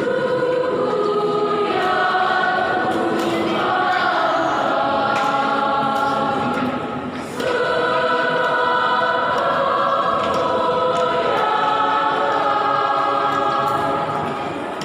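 Mixed church choir singing a hymn in parts, long held chords with a short breath break about halfway through.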